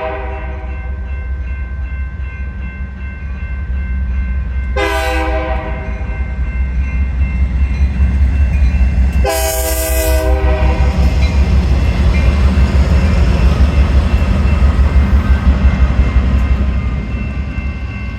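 Diesel freight locomotive sounding its air horn: a blast that ends just after the start, a short one about five seconds in and a longer one about nine seconds in, over a steady low engine rumble. The engine and wheel noise then grow louder as the train passes, easing near the end.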